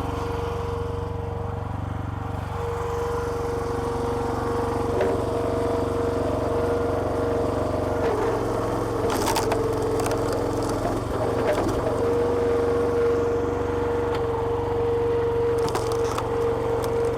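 Small petrol engine running steadily and driving the hydraulic pump of a log splitter, with a steady whine over the engine note that shifts slightly as the load changes. A few sharp cracks and knocks come near the middle and near the end.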